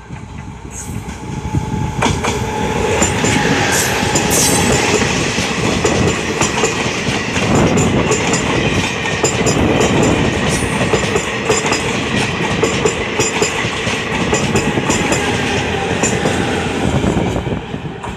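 Eight-coach ICF DEMU (diesel-electric multiple unit) passenger train passing close by at speed: the noise builds over the first two seconds as it arrives, then a steady rush with repeated clickety-clack of wheels over rail joints as the coaches go past, dropping away near the end.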